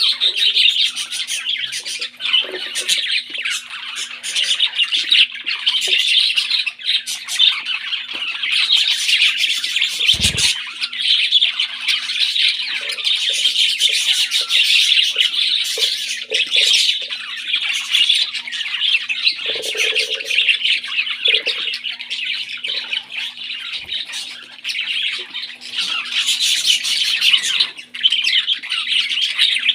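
Baby parrots begging to be fed: dense, continuous high-pitched squawking and chittering. A single low thump about a third of the way in.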